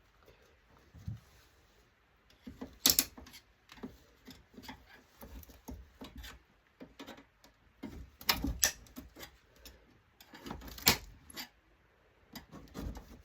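Irregular clicks, knocks and clatter of a stripped LCD monitor's metal and plastic parts being handled and worked loose by hand, with sharper knocks about three, eight and a half and eleven seconds in.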